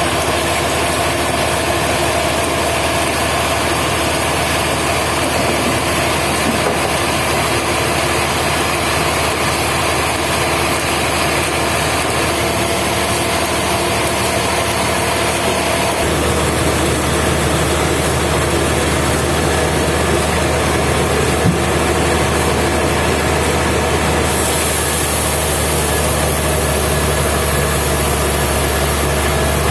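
Sawmill machinery running with a steady mechanical drone. A deeper low hum joins about halfway through.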